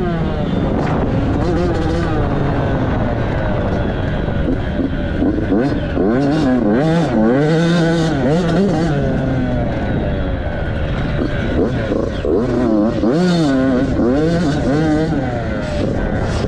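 Dirt bike engine revving up and dropping back again and again, its pitch rising and falling as the bike accelerates and eases off around the track.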